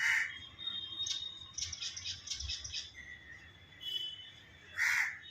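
Myna birds calling: a loud call at the start and another about five seconds in, with a quick run of about seven short chirps in between, over a faint steady high tone.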